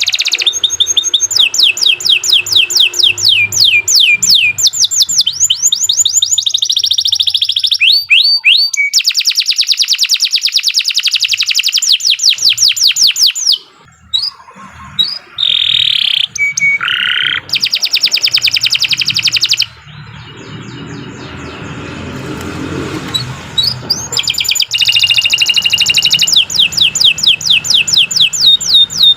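Domestic canary singing a long, loud song of fast repeated trills and rolling phrases, with a quieter break about halfway through before the trills start again.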